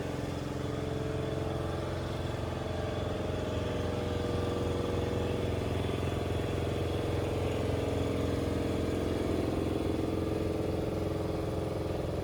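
A vehicle engine running steadily, with a slow, slight drift in pitch.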